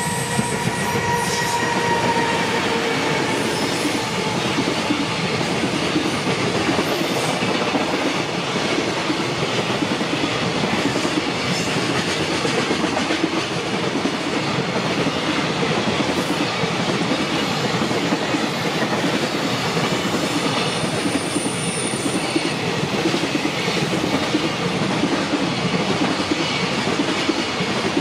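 Electric-locomotive-hauled container freight train rolling past, its wagons' wheels clattering steadily in a repeating clickety-clack over the rail joints. A high whine is heard only in the first couple of seconds.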